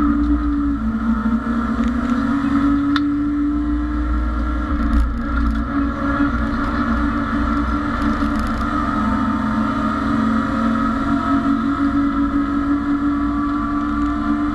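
BMW E30 race car's engine running hard at high revs, heard from inside the stripped cabin, with a steady note that dips briefly near the start. Low road and drivetrain rumble runs underneath.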